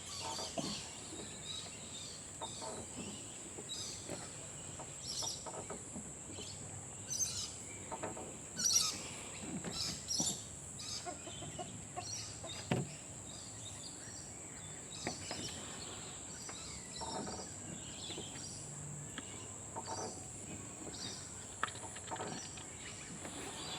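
Birds chirping now and then over a steady high-pitched hiss, with a few faint knocks.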